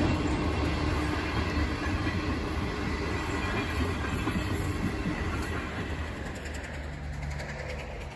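Passenger train's stainless-steel carriages rolling past on the track, a steady rumble of wheels on rail that fades gradually as the train moves away.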